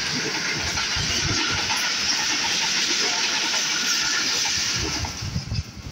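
Train rolling on the rails: a loud, steady rush of wheel and rail noise with an uneven low rumble underneath, falling away sharply about five seconds in.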